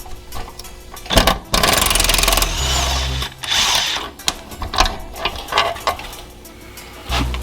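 A power tool runs in short bursts, with a fast hammering burst of about a second, while a bolt is driven. Metal clicks and clanks of tools are heard around it.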